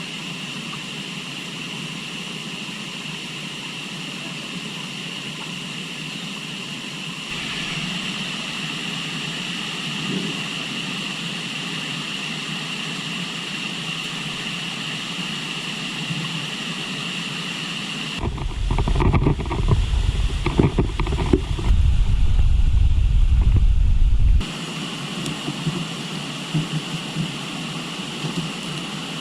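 Steady rushing of river water. From about 18 seconds in, wind buffets the microphone with loud, irregular low rumbling for about six seconds, then stops abruptly.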